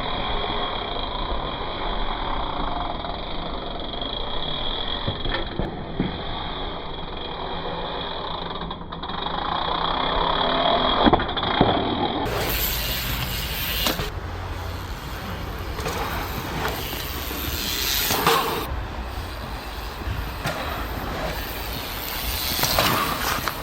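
Mountain bike riding dirt jumps: tyres rolling on dirt and wind noise, broken by occasional sharp knocks of landings and wheel impacts.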